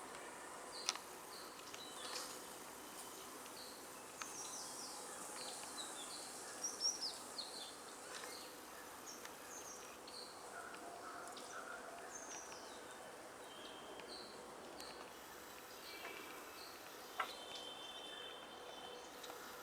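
Several birds calling with short, high, down-slurred chirps, thickest a few seconds in, over a faint steady background hum. A sharp click comes about a second in and another near the end.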